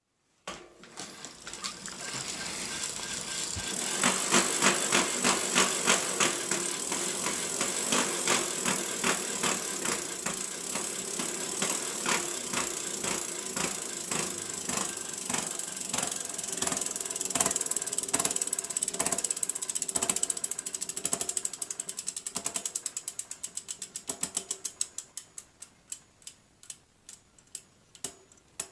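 2014 Giant Talon 4 mountain bike's rear hub and freehub spinning with a grinding noise under a fast rhythmic clicking, the sign of a faulty hub or freehub. The clicks slow and fade as the wheel coasts down to a stop near the end.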